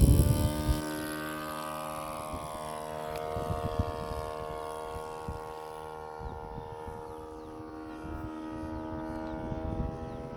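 Radio-controlled model Cessna 188 Agwagon's engine and propeller running as a steady drone that comes in sharply at the start, its pitch easing down slightly and then rising a little near the end.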